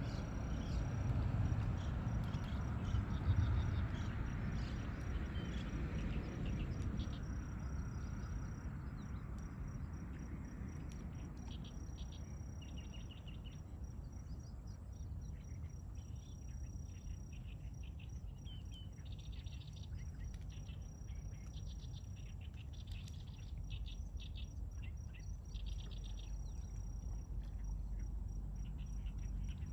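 Small birds chirping in quick repeated trills over a thin, steady high-pitched tone, against a low rumble that fades away over the first ten seconds or so.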